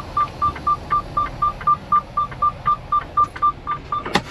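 Semi truck cab's electronic warning chime beeping rapidly, about four short beeps a second, typical of a door left open while he climbs out. The beeping stops with a single sharp thump near the end.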